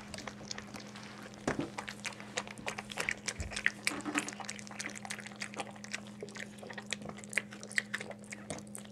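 Bichon Frise mother dog licking and chewing at her newborn puppy's birth sac: a rapid, irregular run of wet smacking and clicking sounds, over a steady low hum.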